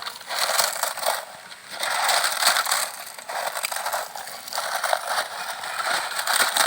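Lay's potato chips being crushed by hand, crackling crunches in repeated bursts about a second apart, as they are broken up into a coating for the chicken.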